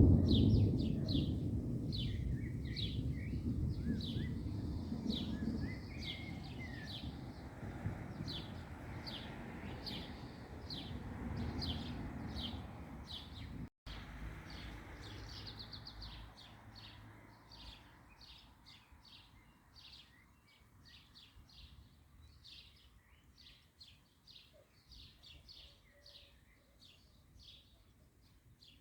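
Thunder rumbling and slowly dying away over the first half, while birds keep chirping in quick repeated notes throughout.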